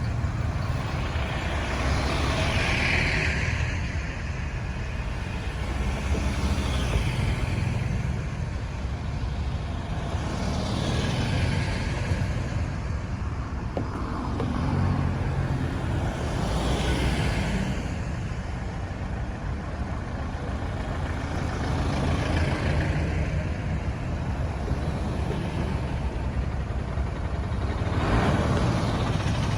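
Busy road traffic: a steady low rumble of engines and tyres, with a vehicle passing close about every four to six seconds, each one swelling and fading.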